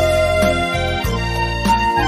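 Thai khlui bamboo flute in B-flat playing a melody over a backing track with keyboard and a steady beat. A held note ends early on and a higher note starts near the end.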